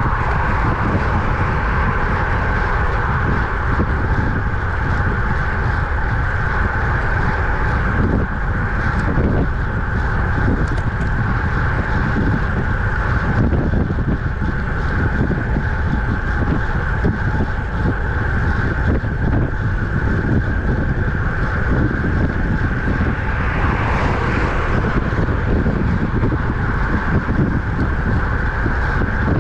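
Wind rushing over the microphone of a camera riding on a road bike at speed: a steady, loud low rumble with a constant higher hum running through it.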